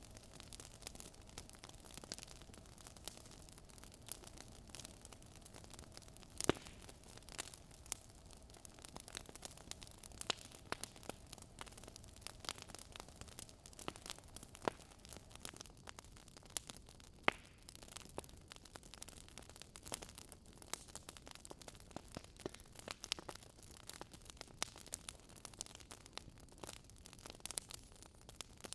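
Wood fire burning in a fireplace, crackling and popping irregularly over a faint steady hiss, with a few sharper pops standing out, one about six seconds in and another past the middle.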